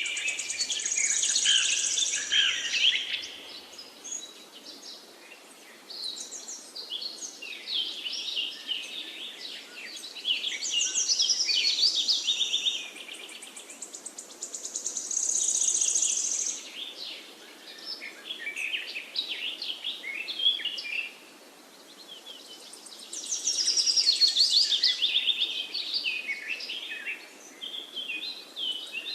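Songbirds singing: rapid high-pitched song phrases a couple of seconds long, repeating with short pauses between them, over a faint steady background hiss.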